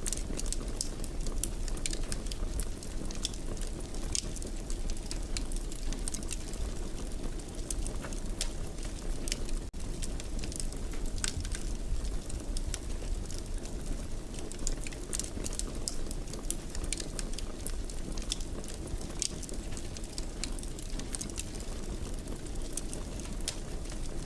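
Wood fire in a fireplace crackling, with frequent irregular sharp pops over a steady low rumble. The sound drops out for an instant about ten seconds in.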